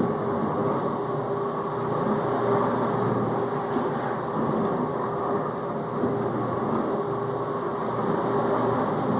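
Whirlpool dishwasher in the circulation phase of its final rinse: the wash pump runs steadily with a hum, and water sprays and splashes inside the tub.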